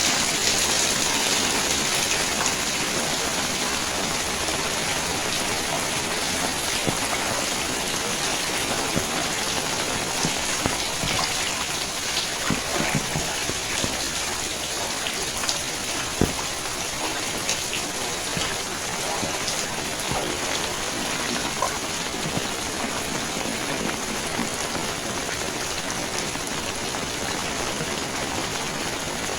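Steady rain falling, a constant hiss with scattered sharper drops and drips through it.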